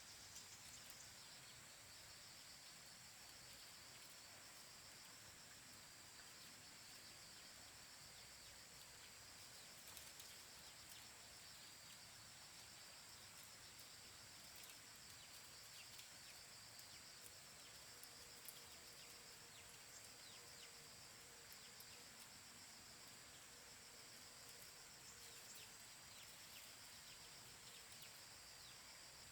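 Faint insect chorus: a steady high-pitched drone with a pulsing trill just below it, and a few scattered faint clicks.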